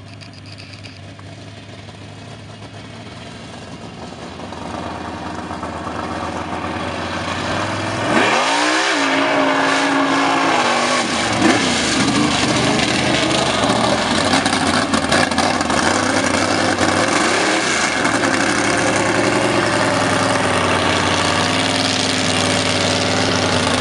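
Mud-bogging truck's engine growing steadily louder, then revving sharply about eight seconds in and running hard at high revs. The revs dip and climb again about two-thirds of the way through.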